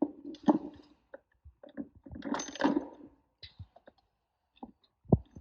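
Metal transmission parts clicking and clinking as they are handled and set in place, with a rattly stretch in the middle and a dull thump near the end.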